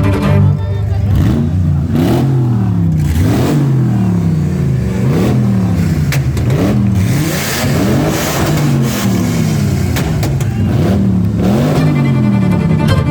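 Off-road race vehicle's engine revved over and over, about once a second, each rev rising quickly in pitch and falling back.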